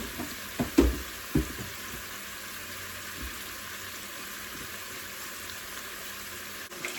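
Meatballs frying in oil in a pan: a steady sizzle, with a few short knocks in the first second and a half.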